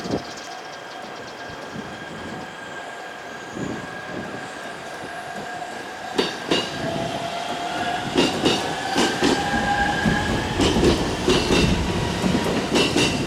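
Train running along the track, its wheels clacking over rail joints from about six seconds in and more often and louder toward the end, over a steady high whine that rises slightly in pitch midway.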